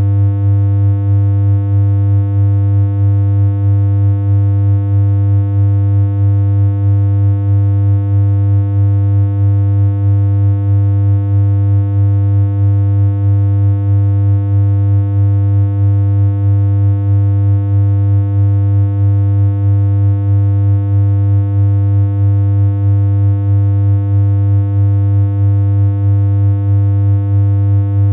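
Synthesized electronic hum: one steady, low, buzzy tone that holds the same pitch without change, with a faint regular pulse in loudness about twice a second.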